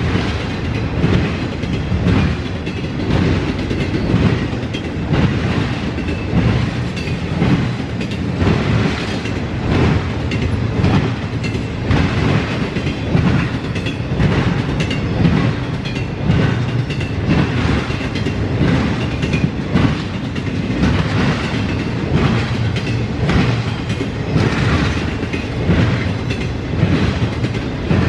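Cars of a CSX intermodal freight train rolling past, their wheels clacking over the track in a steady repeating rhythm.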